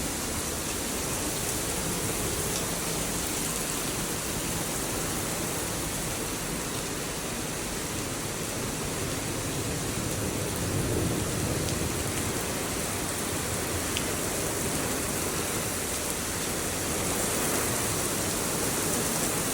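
Heavy rain pouring steadily in a strong thunderstorm, driven by strong wind, swelling slightly at times.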